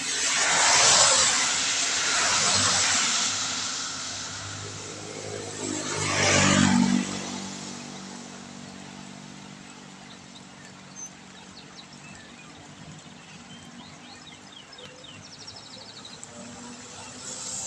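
Vehicles passing on a wet road, tyres hissing on the water: one swells and fades over the first few seconds, a second with its engine audible passes about six seconds in, and a third approaches near the end. Between them is a steady hiss of rain.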